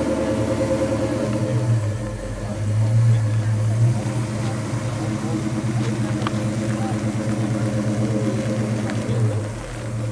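1970 Pontiac GTO Judge's V8 running at low speed as the car creeps along, with a steady low engine note and a choppy exhaust rhythm, swelling briefly about three seconds in.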